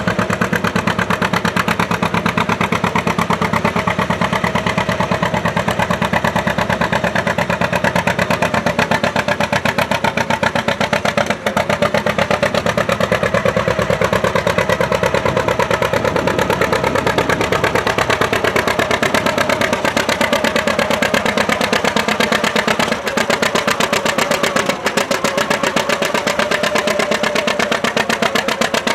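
Antique farm tractor engine running steadily with an even firing beat, its pitch shifting a little around the middle and again near the end.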